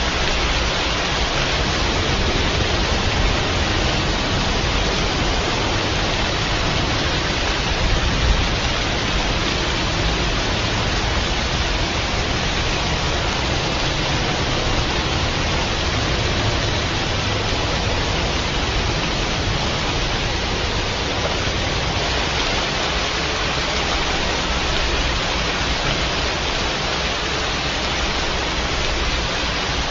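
Steady, dense rainfall, an even hiss of falling water with no separate drops or breaks.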